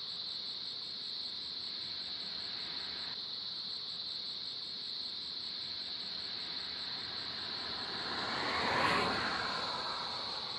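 Night ambience: a steady insect chorus like crickets, with a vehicle passing by that swells and fades about eight to nine seconds in.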